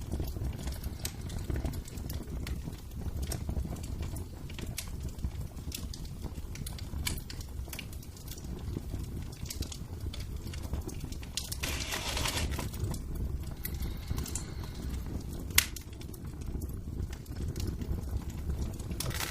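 Wood fire in a fireplace crackling, with scattered sharp pops over a low steady rumble. There is a brief hissing burst about twelve seconds in and one sharper, louder pop a few seconds later.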